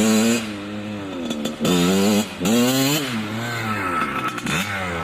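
Dirt bike engine revving up and down in several short surges, its pitch climbing and falling.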